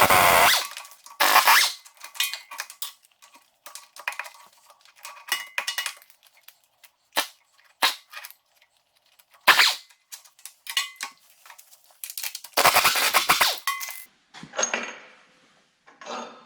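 Impact wrench hammering in short rattling bursts as it breaks loose and backs out bolts, with a longer burst near the end. Light metallic clicks and clinks of bolts and sockets fall between the bursts.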